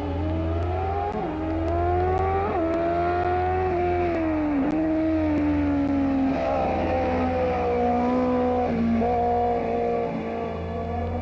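Rally car engine pulling hard, its pitch climbing and dropping sharply twice in the first few seconds as it shifts up, then easing off and running at a lower, steadier pitch. A steady low hum runs underneath.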